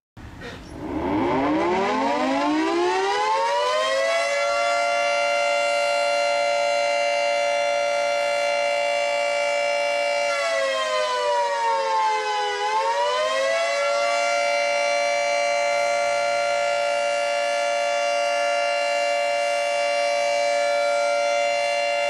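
Civil defense siren winding up from silence over about four seconds to a steady wail, then dipping in pitch once about ten seconds in and climbing back to hold steady again.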